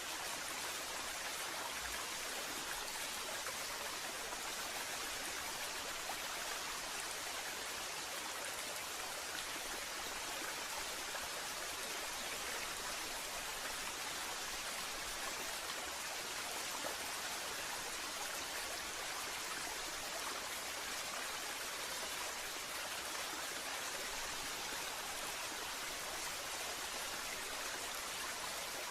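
Waterfall: a steady, even rush of falling water, with no birdsong over it.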